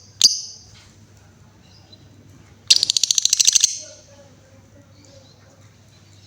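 Female lovebird calling: one sharp high chirp at the start, then, about three seconds in, a fast trill of rapid high notes lasting about a second.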